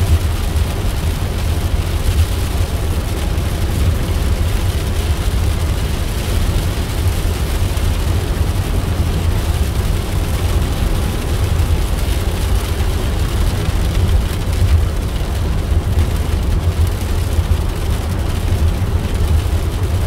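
Steady low rumble of a moving car's road and engine noise heard from inside the cabin, with no single events standing out.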